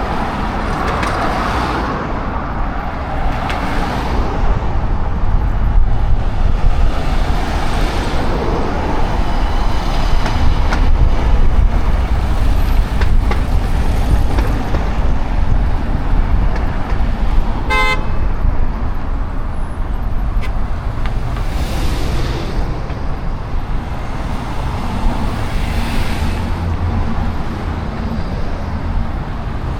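Steady city road-traffic noise, heavy in the bass, with one short car-horn toot about two-thirds of the way through.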